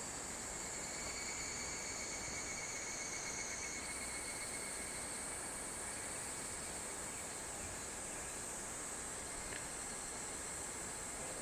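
Chorus of summer insects calling steadily in several high-pitched layers, one of them jumping higher about four seconds in, over a soft steady outdoor hiss.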